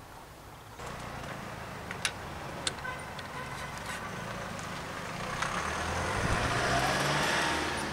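A motor vehicle passing by, its engine rumble and road noise swelling over several seconds and easing off near the end. Two sharp clicks come about two and three seconds in.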